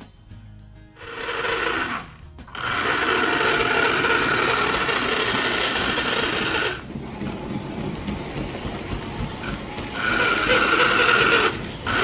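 Small electric motor of a postwar Lionel toy train car whirring as it runs on the track. It cuts out briefly about two seconds in, runs strong, then drops in level for a few seconds before picking up again. The uneven running fits the intermittent performance of the Lionel track cleaning car, which still needs a fuller disassembly and cleaning.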